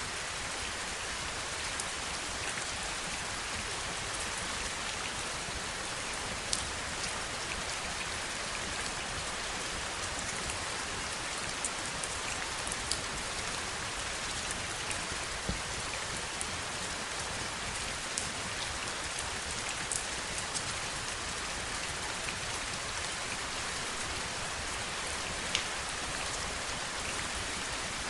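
Steady heavy rain: an even hiss of falling rain with scattered sharper drops ticking close by.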